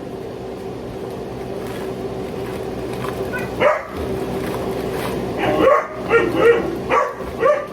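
A dog barking in short pitched barks: one, then a quick run of about five near the end, over a steady low hum. The dog barks while shut away as the family eats.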